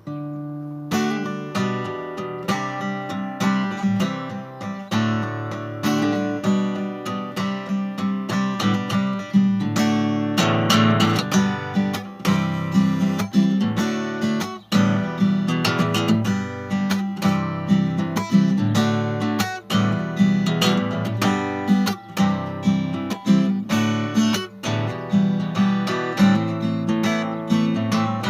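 Acoustic guitar strumming chords in a steady rhythm, the instrumental introduction to a song.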